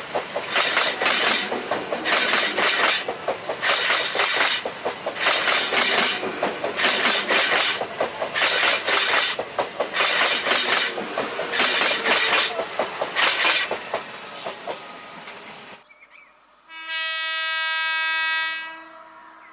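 Passenger train crossing a rail bridge: loud, rattling wheel-and-girder clatter that swells in a regular rhythm as the coaches pass, stopping abruptly about sixteen seconds in. About a second later a train horn sounds one steady blast of roughly two seconds.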